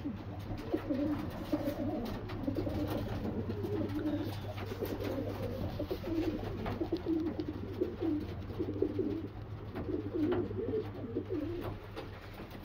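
Racing homer pigeons cooing over and over in a loft, low throaty warbling calls overlapping with one another, over a steady low hum.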